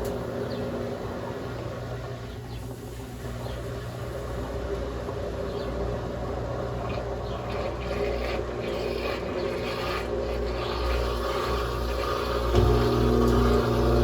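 Brastemp Ative 11 kg top-loading washing machine pausing during its agitation stage: the motor hum cuts off at the start, a quieter uneven sound with faint ticks follows, and the motor starts humming again near the end.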